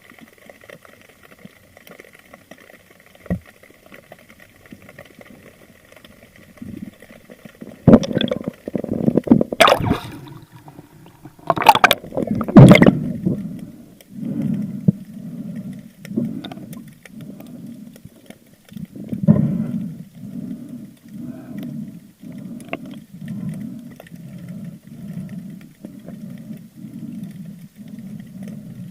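Water sounds recorded underwater: several loud bubbling, splashing rushes about eight to thirteen seconds in, then a steady run of low swishes about once a second.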